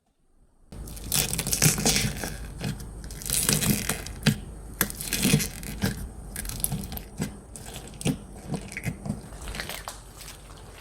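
Slime being squished and pressed by hand, with irregular crackling clicks and pops. The sound starts under a second in, after a brief silence.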